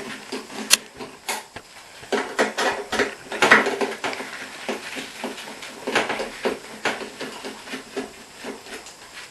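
Screwdriver with a T25 Torx bit loosening screws from the sheet-metal panel under a Smeg dishwasher door: irregular metallic clicks, taps and scrapes, with sharper knocks about a second in and around three and a half seconds in.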